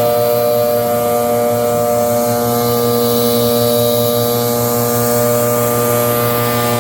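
Leaf blower engine running steadily at a constant pitch.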